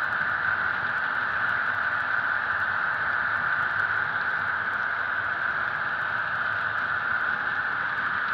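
Soundtraxx Tsunami sound decoder in an HO-scale EMD SD70ACe model locomotive playing a diesel engine sound through its small speaker: a steady, hissy drone that does not change.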